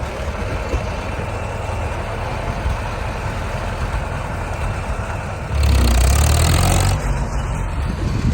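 Tractor engines running steadily. Past the middle there is a louder rushing stretch lasting about a second and a half.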